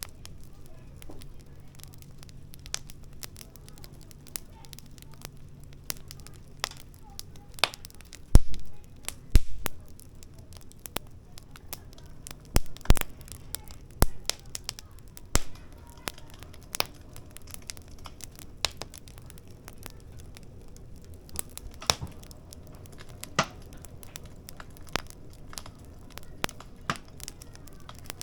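Firewood burning in a camping fire pit, crackling with irregular sharp pops and snaps. The loudest snaps come in a cluster between about eight and sixteen seconds in.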